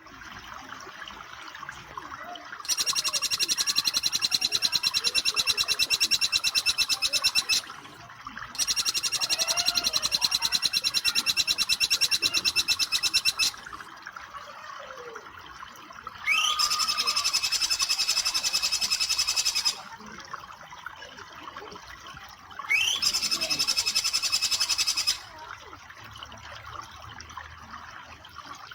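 A jingjing petulak bird sings its rapid 'nembak' trill four times, each a long, very fast run of high repeated notes. The last two open with a quick rising note. A steady wash of running water continues underneath.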